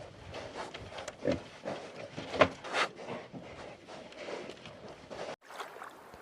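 Pigs grunting in short, irregular sounds, with a few louder grunts around two and a half seconds in; the sound drops out briefly a little after five seconds.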